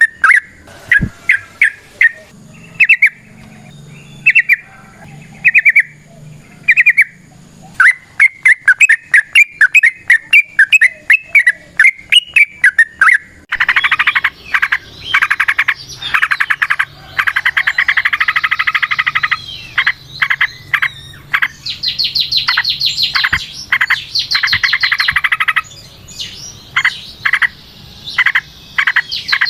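Yellow-vented bulbul (trucukan) singing: short, fast runs of bubbly notes at first, then from about halfway a long, dense rapid song of trilled phrases that climbs higher in places.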